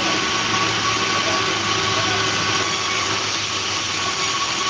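Sawmill machinery running steadily: a constant mechanical drone with a thin steady whine over a low hum.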